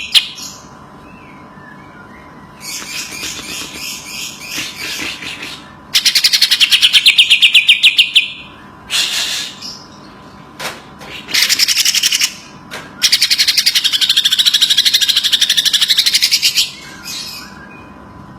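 Cucak ijo (green leafbird) singing in loud phrases of rapidly repeated high notes, each phrase lasting one to three seconds with short pauses between, the longest near the end. A faint steady hum runs underneath.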